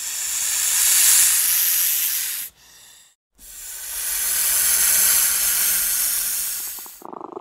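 Snake hissing: two long, loud hisses, the first lasting about two and a half seconds and the second about three and a half, with a short gap between.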